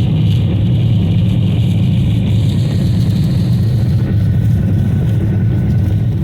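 Boeing 737-800's CFM56-7B jet engines at takeoff thrust: a loud, steady, deep roar with airflow noise over it.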